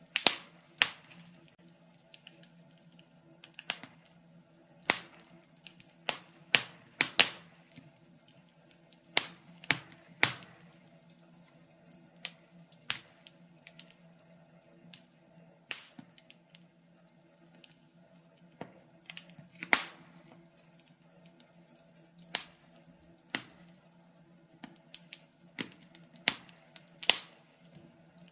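Wood fire crackling in a fireplace: irregular sharp pops and snaps, a few every second or two, some much louder than others, over a faint steady low hum.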